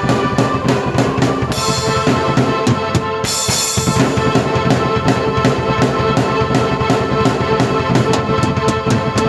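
Drum kit and keyboard played together in an original piece: a dense run of kick and snare hits under sustained keyboard chords, with cymbal crashes about two seconds and three and a half seconds in.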